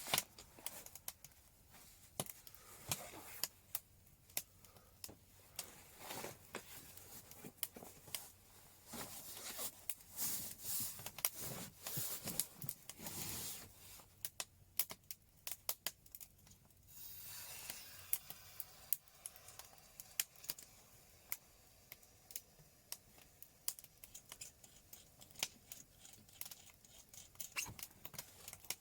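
Wood fire crackling, with many sharp, irregular pops and snaps and a few short stretches of hiss.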